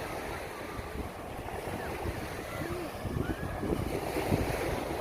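Sea waves washing on a beach, with wind buffeting the microphone.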